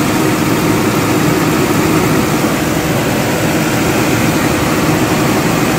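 Nissan Patrol GQ's RB30 straight-six idling steadily on LPG, with a faint humming-growling that the owner traces to the gas pipe between the LPG lock-off valve and the converter.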